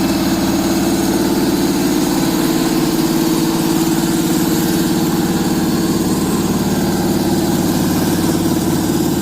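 Doosan 530-horsepower marine diesel engine running steadily on a test run, a continuous even drone.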